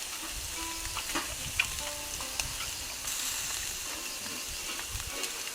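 Meat sizzling on a grill over a charcoal fire in a fire-pit stand: a steady hiss with a few sharp pops and crackles.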